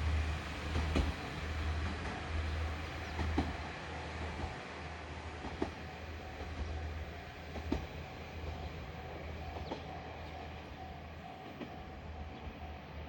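A train running on jointed rails: a steady low drone, with a single click about every two seconds as the wheels cross rail joints, slowly fading.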